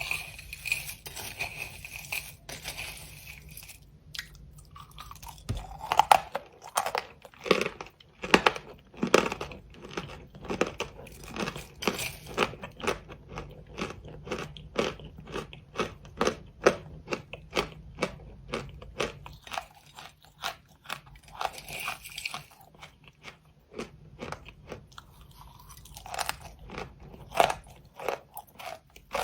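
Close-miked crunching and chewing: a hard, crumbly item bitten and chewed in quick crisp crunches, two to three a second, starting about four seconds in after a short stretch of soft hiss.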